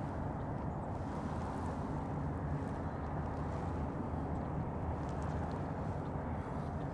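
Steady low drone of distant engine noise, unchanging throughout.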